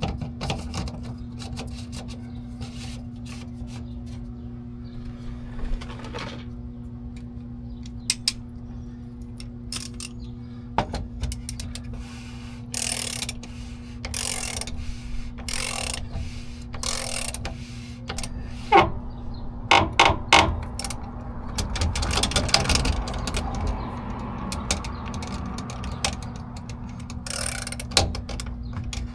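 Ratchet wrench clicking in a run of short strokes, with tool clinks and knocks, as the fuel filter cap is tightened back down. A steady low hum runs underneath.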